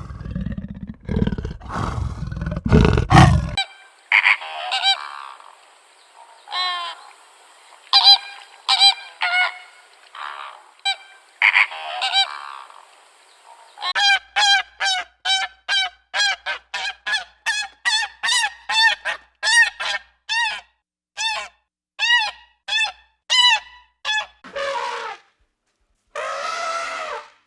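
A low rumbling animal roar fading out in the first few seconds, then a run of pitched honking animal calls that turns into a fast, even series of about two honks a second for around ten seconds, with a couple of longer drawn-out calls near the end.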